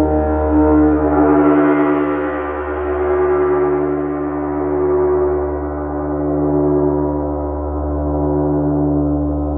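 Gong being played: struck again about a second in, its upper overtones blooming into a shimmering wash and slowly dying away while the deep tones keep ringing, the sound swelling and fading in slow waves.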